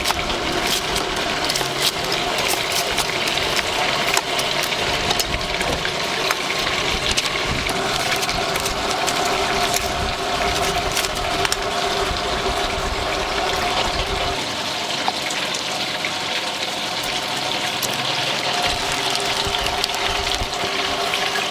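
Deep-fryer oil bubbling steadily with small crackles, over a low steady hum.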